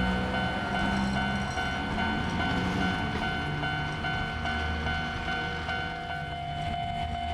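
Electric train at Yorii Station, the Chichibu Railway Deki 500 locomotive with the Tobu 9050 series set in tow, running with a steady electrical hum and whine over a low rumble. The whine holds at several fixed pitches, and one tone grows stronger near the end.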